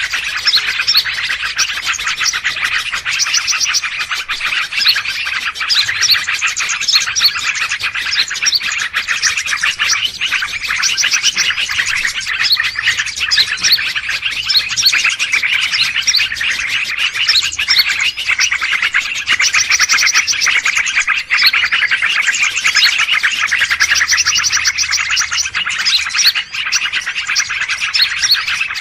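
A dense, unbroken chorus of many small birds chirping and trilling at once. This is a 'noisy birds' commotion call mix of the kind played as a lure to draw wild birds in.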